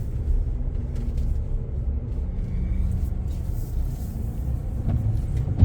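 Low, steady rumble of a pickup truck under way, its engine and road noise heard from inside the cab.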